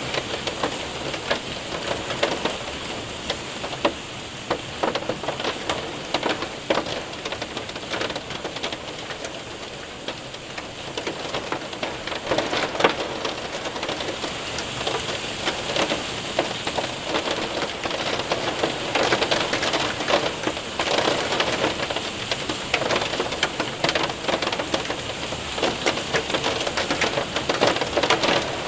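Hail and rain hitting a window and roof: a steady hiss of rain with many sharp ticks and taps of hailstones striking throughout.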